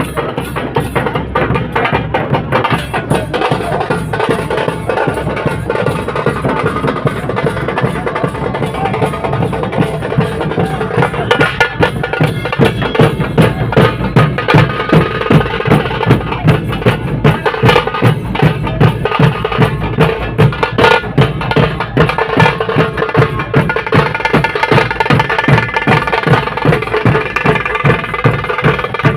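Muharram drumming: drums beaten with sticks in a fast, dense rhythm. About twelve seconds in, strong accented beats come through more clearly, a little under two a second.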